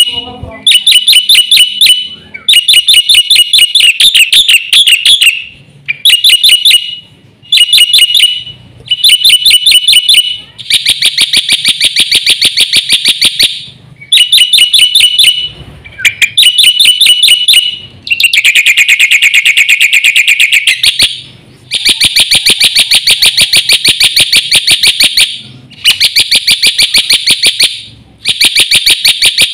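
Black-winged myna singing in a string of rapid, pulsing chatter phrases, each one to three seconds long, with short pauses between them.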